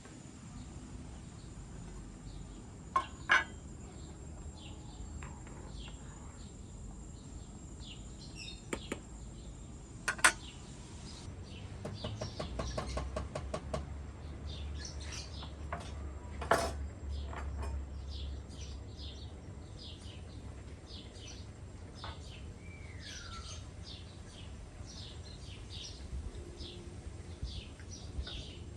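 Small birds chirping throughout, with a few sharp clinks and knocks of cooking utensils and dishes and a quick run of taps about twelve seconds in.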